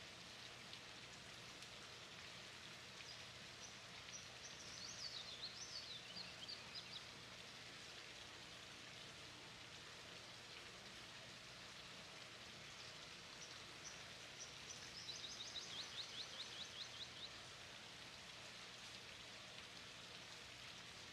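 Quiet outdoor background hiss with a small bird singing twice: a run of high chirping notes a few seconds in, and a quick trill of high, falling notes past the middle.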